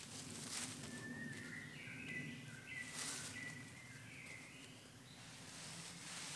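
A songbird singing a run of clear notes that step up and down in pitch, from about a second in to about five seconds, with brief rustles of gear being handled.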